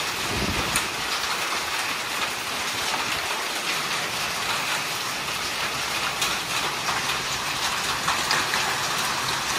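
Heavy rain falling steadily on waterlogged ground: a dense, even patter.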